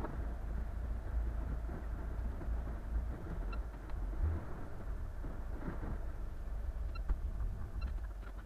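Steady low rumble of a boat under way, with a grainy noise above it and a few faint high pings about three and a half, seven and eight seconds in.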